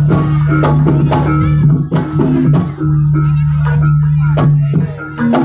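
Live jaranan (kuda lumping) gamelan music: drum strokes and repeated pitched percussion notes over a steady low held tone.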